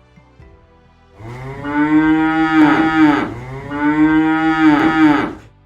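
A cow mooing twice: two long moos back to back, each about two seconds, the first starting about a second in.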